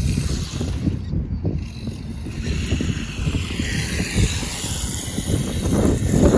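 Radio-controlled toy car driving, its small motor whining and falling then rising in pitch mid-way, over a rumbling, knocking noise of wheels on rough ground and wind on the microphone.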